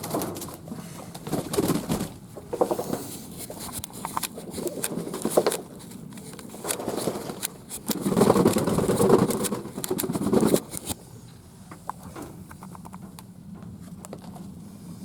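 Fantail doves cooing in several bouts, the loudest from about eight to ten and a half seconds in, with scattered sharp clicks among them.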